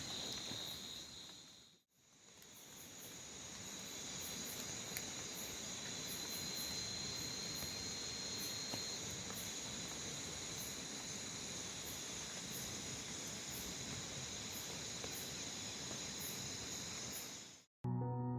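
Chorus of crickets and other insects trilling steadily in the forest, high-pitched, with a faster pulsing chirp above it. It dips to silence about two seconds in, swells back, and cuts off sharply near the end.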